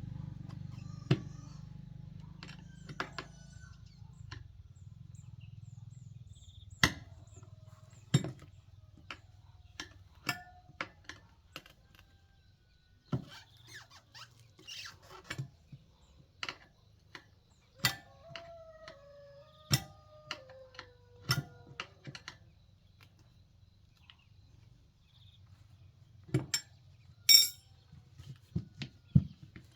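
Irregular sharp knocks and clinks, a few seconds apart and of varying loudness, over a low hum that fades away in the first few seconds.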